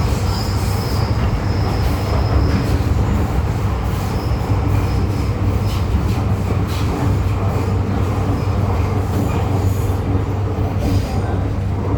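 MTR M-Train electric multiple unit running between stations, heard from inside the carriage: a steady low rumble of the train on the rails, with a faint high wheel squeal coming and going, most noticeably in the first few seconds and again about four seconds in.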